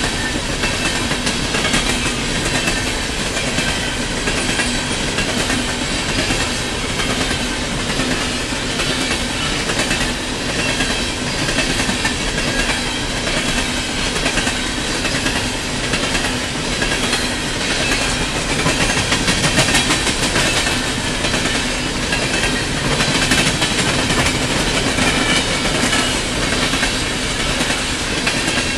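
Loaded-looking coal gondolas of a long freight train rolling past close by: a steady, unbroken noise of steel wheels running on the rails, with the clatter of the cars going by.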